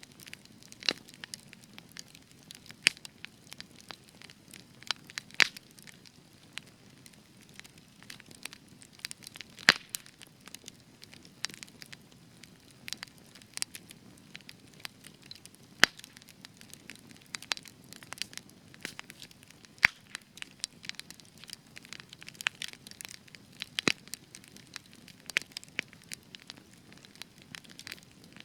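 Spruce logs burning in a campfire, crackling steadily with irregular sharp pops, several a second and some much louder, over a faint low hiss of the flames.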